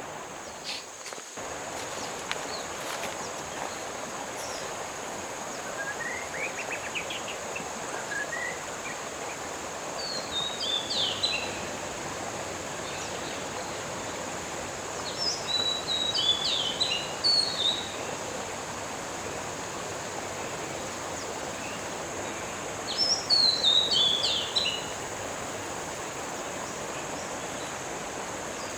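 Songbirds singing over a steady outdoor background rush. A thin rising series of notes comes about six seconds in, then three bursts of quick falling chirps, the last the loudest.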